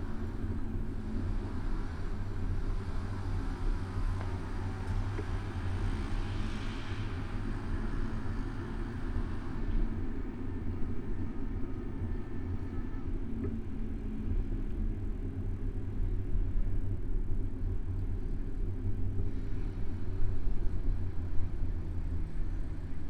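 Steady low rumble of a bicycle riding through city traffic, picked up by a camera mounted on the bike, with cars passing and a few louder jolts near the end.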